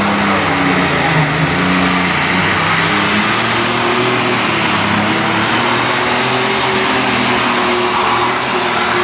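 Alcohol-burning super stock pulling tractor's engine running at full power under load on its pull, loud and steady, with a high whine that climbs over the first three seconds and then holds.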